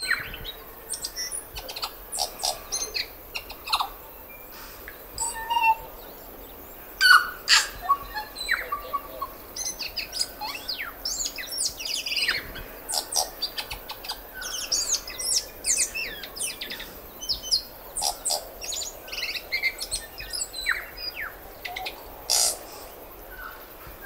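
Tui singing: a varied string of short whistled notes, sharp clicks and quick chirps with fast pitch glides and brief pauses between phrases. It has the weird, mechanical, R2-D2-like quality of the tui's song.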